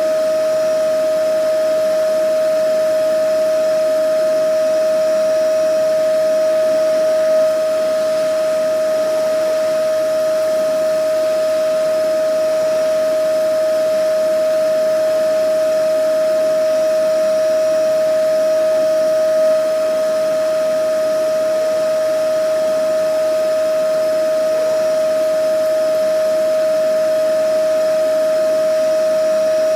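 Vacuum cleaner motor running continuously: a steady high whine over an even rush of air, unchanging in pitch, with two slight brief swells.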